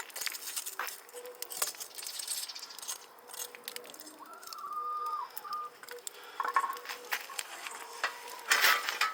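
Scattered crackles and clicks from a wood and charcoal cooking fire, with a bird calling once for about a second and a half, about four seconds in.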